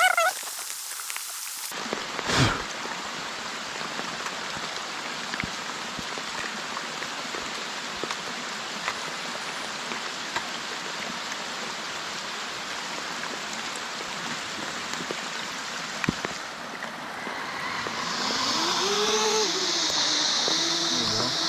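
Steady hiss of rain falling, with scattered ticks of drops landing close by. A thump comes near the start, and in the last few seconds the hiss grows brighter and louder, with faint rising and falling tones over it.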